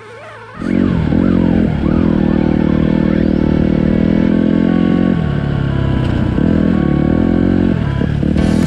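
Dirt bike engine running, its pitch rising and falling in the first couple of seconds, then holding fairly steady.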